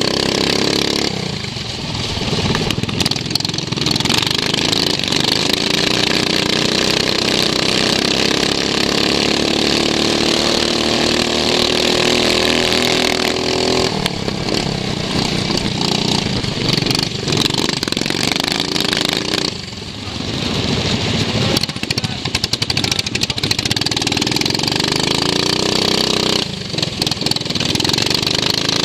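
Racing lawn mower engine heard onboard, running hard at high revs; the throttle is eased off briefly three times (near the start, about two-thirds through, and near the end) and the revs climb back up each time.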